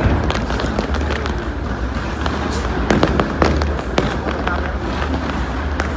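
Fireworks display: shells bursting and crackling in quick, overlapping pops.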